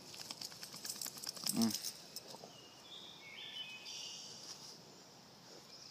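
Crickets or other insects trilling steadily, with a quick run of rustling and scuffing in the first two seconds and a short grunt-like vocal sound about one and a half seconds in. A few brief chirps follow near the middle.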